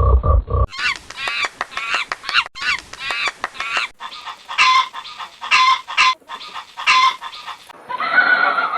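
Poultry calling in two back-to-back clips. First comes a rapid run of chattering, clucking calls, then a series of five or six separate loud honking or quacking calls about half a second to a second apart.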